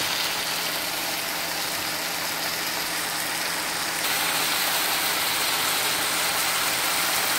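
Chicken pieces and onions sizzling steadily as they brown in oil in a frying pan, with a low steady hum underneath. The sizzle gets slightly louder about four seconds in.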